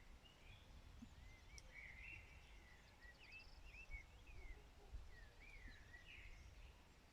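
Faint songbird song: a string of short, warbling whistled phrases, with a brief fast trill a few seconds in, over a low rumble.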